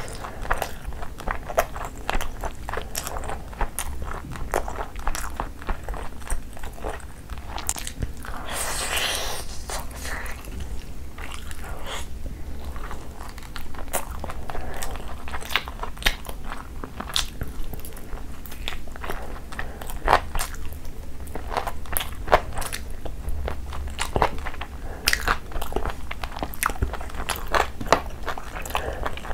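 Close-miked chewing and biting: mouthfuls of tandoori chicken eaten with many sharp, wet mouth clicks and smacks. A louder, noisier stretch of about two seconds comes around nine seconds in.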